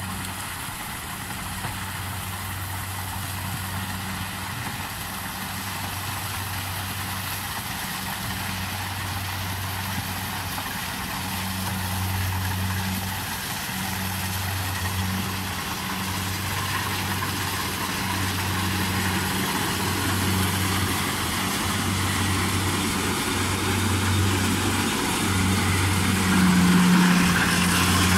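Engine of a corn-harvesting machine running steadily with a low hum and a wide mechanical hiss, slowly growing louder.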